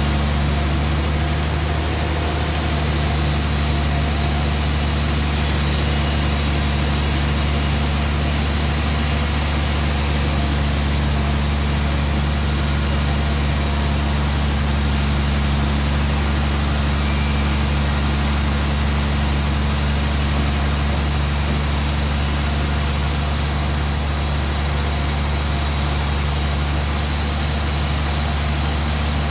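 Sawmill engine running steadily at constant speed, a steady low hum that does not change.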